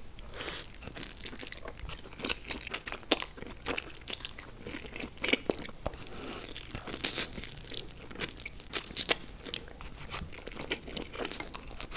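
Close-miked ASMR eating: chewing and biting, with many sharp, irregular crunches and wet mouth clicks.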